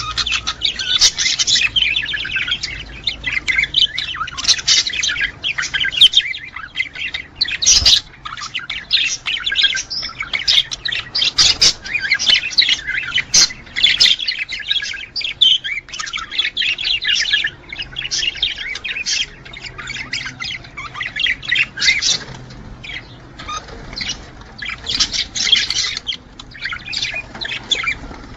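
A flock of budgerigars chattering without pause, with a constant stream of chirps, warbles and squawks, the breeding-season calling of males.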